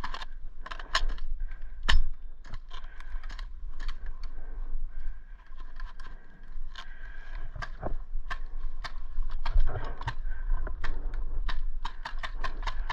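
Irregular clicks, knocks and rattling from airsoft gear being handled, as in a magazine reload.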